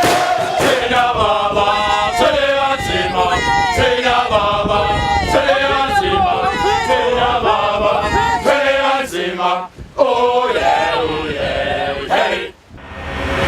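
A group of voices singing together in harmony, unaccompanied and chant-like. The singing breaks off briefly about ten seconds in and again near the end.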